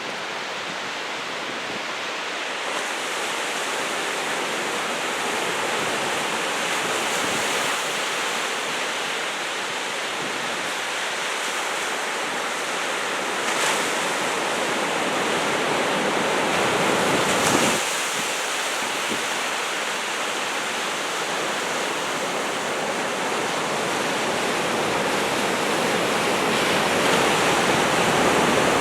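Ocean surf from typhoon swell breaking and washing continuously, with a steady rush of noise that swells briefly a couple of times and grows gradually louder toward the end, under some wind on the microphone.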